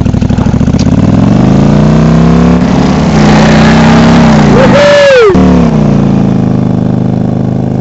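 Motorcycle-powered chariot's engine accelerating hard. Its pitch climbs over the first couple of seconds and holds high, then drops steadily through the last few seconds.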